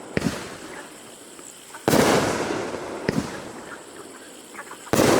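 GD65074 'Outer Space' firework going off: two loud bursts about three seconds apart, each fading slowly, with a sharp, shorter crack between them.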